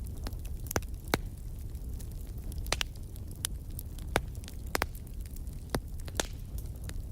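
Fire burning in a fireplace: irregular sharp crackles and pops, about a dozen, over a steady low rumble of the flames.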